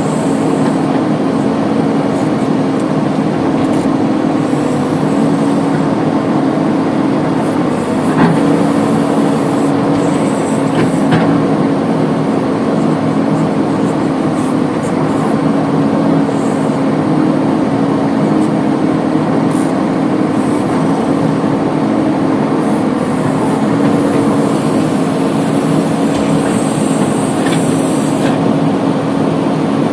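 Heavy diesel engine running steadily at an even pitch, with a couple of short knocks about eight and eleven seconds in.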